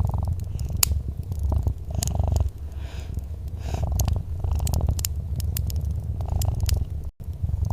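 Domestic cat purring close up, a low rumble that swells and eases with each breath. Sharp crackles and snaps from a wood fire are scattered through it. The sound cuts out completely for a split second near the end.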